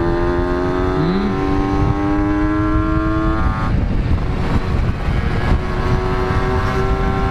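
Two-stroke motorcycle engine under way, its note climbing steadily for about three and a half seconds, then breaking off. A steady engine note returns near the end. Heavy wind rumble on the microphone underneath.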